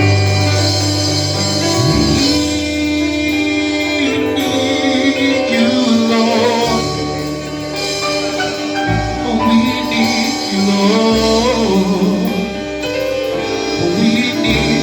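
Gospel worship music: a band playing sustained bass and keyboard chords while singing continues between the lyric lines.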